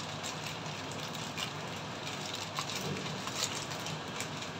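Yakisoba noodles and bacon frying in a pan: a steady sizzling hiss with a few faint crackles.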